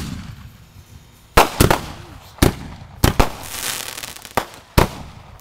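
Consumer fireworks going off in quick succession: about eight sharp bangs, some in close pairs, with a crackling hiss in the middle.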